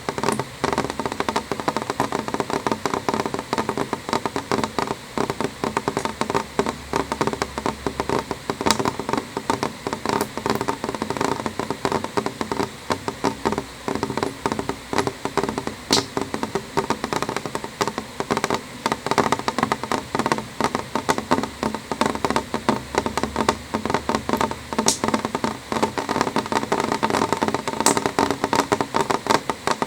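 Rain falling on window glass: a dense, steady run of small drop taps, with a few sharper, brighter ticks now and then.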